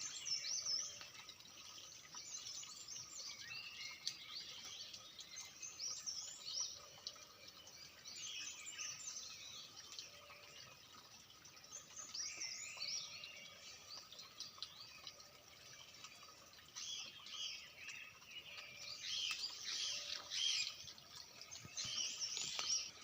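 Birds chirping in repeated flurries of quick high calls, with short lulls between them.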